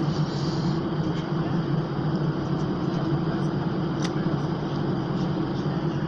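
Steady airliner cabin noise on the ground after landing: an even low hum of engines and cabin air with no change in pitch, and a single sharp click about four seconds in.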